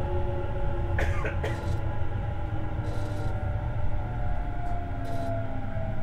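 Tobu 50090 series electric train heard from inside the car over its underfloor gear: a steady rumble of wheels on rail under the traction motors' whine, which slowly falls in pitch as the train slows. A brief sharp clatter comes about a second in.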